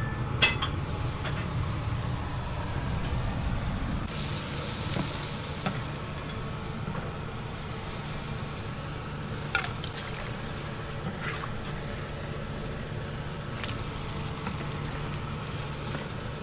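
Food sizzling as it fries over a steady low rumble, with a few sharp clicks scattered through.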